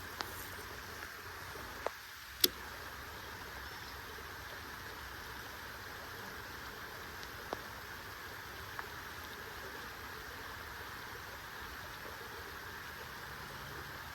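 Steady hiss of rain falling, with a few short sharp clicks and taps over it, the loudest about two and a half seconds in.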